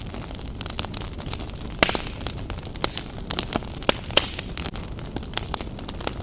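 Wood burning in a fireplace: irregular crackling of the logs over a steady low rumble, with a few louder pops about two seconds in and again around four seconds.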